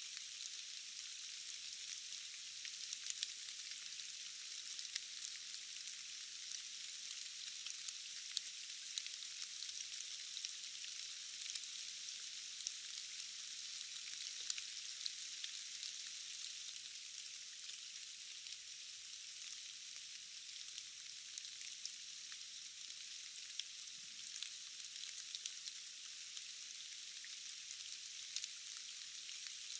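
Steady forest rain: an even, high hiss with no low rumble, dotted with many sharp little ticks of single drops.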